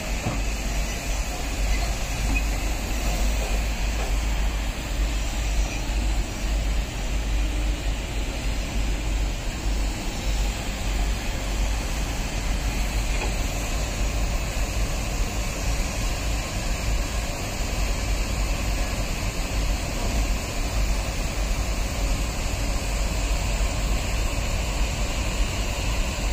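Passenger train rolling slowly past through an automatic coach washing plant: a steady low rumble with an even hiss over it from the running water sprays.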